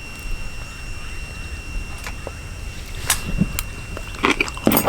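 A few scattered light clicks and taps, with a small cluster near the end, over a faint steady high-pitched tone.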